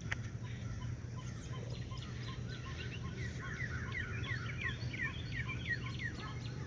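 A bird calling in a quick run of short, downward-slurred chirps, about four a second, starting about three seconds in, over a steady low hum.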